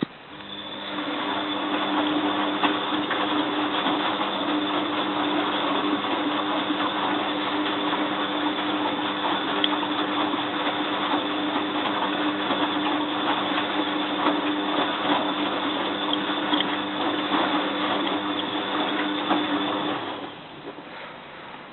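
Bosch WFF2000 washing machine with water rushing through it over a steady hum. It starts about half a second in, runs for about twenty seconds and stops abruptly near the end.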